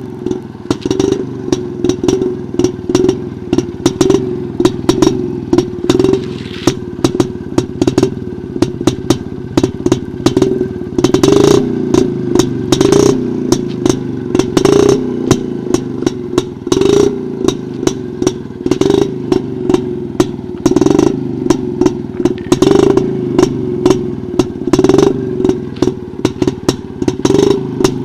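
1961 Jawa 250 Type 353's single-cylinder two-stroke engine running, swelling in loudness about every two seconds, with many sharp clattering clicks over it.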